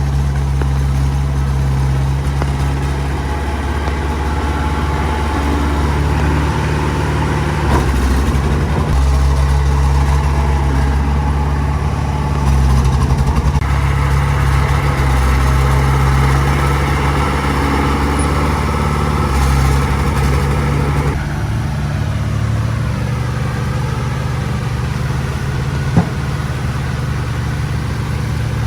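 Diesel engine of heavy earthmoving machinery running under varying load. The engine note grows louder and busier about halfway through, then eases off. There is a single sharp knock near the end.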